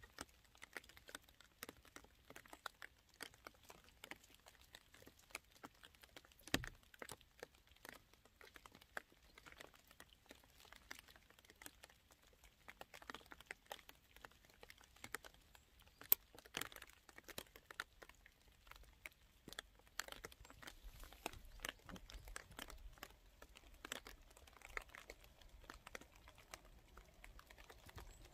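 Faint light rain: scattered raindrops pattering and ticking irregularly on wet roof tiles, with a couple of louder drops about six and a half and sixteen seconds in.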